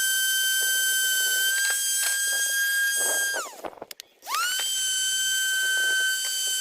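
Electric power tool running at a steady high whine. About halfway through it spins down and stops, then starts again and spins back up to full speed.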